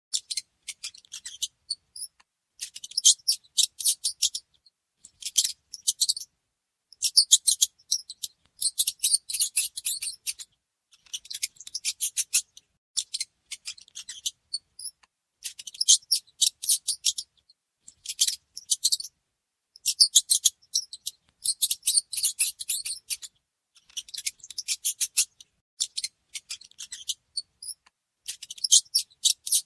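Mouse squeaks in rapid, very high-pitched chittering trains, each about a second long, coming again every second or two.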